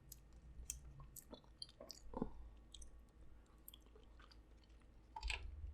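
Faint chewing with scattered soft clicks and mouth smacks. A louder bout of noise sets in near the end.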